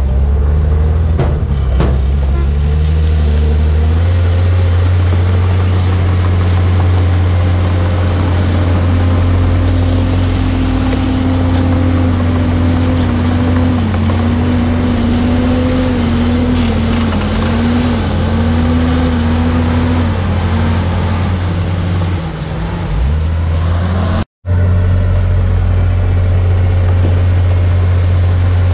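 Komatsu D51PX bulldozer's diesel engine running steadily under load, a loud low drone with a whining tone that rises and falls in pitch for a stretch in the middle.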